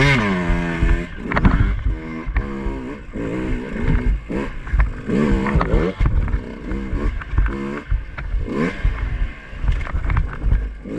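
Two-stroke dirt bike engine revved in short repeated bursts, its pitch rising and falling about once a second as it picks its way over rough trail, with scattered knocks.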